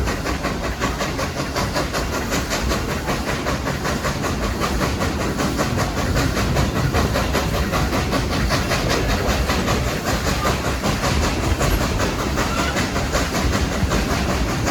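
A moving steam train heard from a passenger car behind Baldwin steam locomotive #70: a steady rumble and rattle with a fast, even beat running through it.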